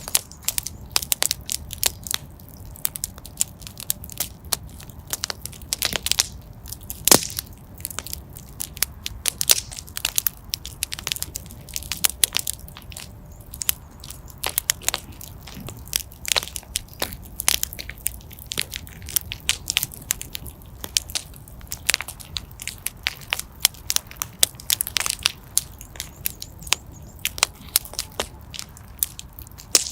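Wood fire burning in a fireplace, crackling steadily with many sharp irregular pops and snaps over a low rumble of the flames.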